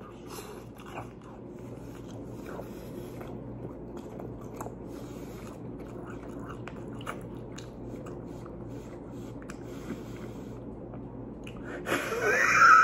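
A man biting into and chewing a slice of pizza whose crust is baked chicken, with scattered small crunches and mouth clicks. Near the end he lets out a loud, drawn-out vocal exclamation.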